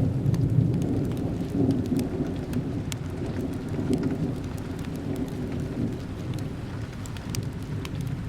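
Steady rain with a low rumble of thunder, loudest in the first second and slowly easing off, and scattered sharp ticks over the top.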